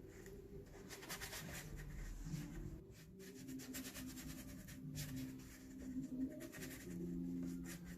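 Paintbrush strokes dragging and scrubbing across watercolour paper, an irregular series of short rubbing swishes.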